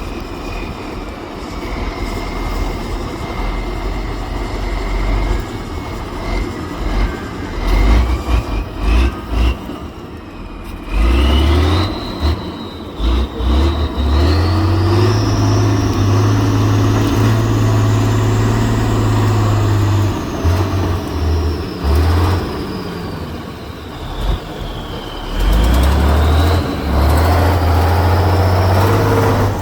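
Heavy off-road trial truck engine running and revving under load, with a high whine that rises and falls and heavy low rumble that comes and goes.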